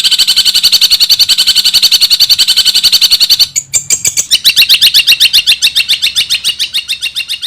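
Long-tailed shrike (cendet) giving a rapid chattering call, a fast even run of short high notes about eight or nine a second, broken by a brief gap about halfway through before it resumes.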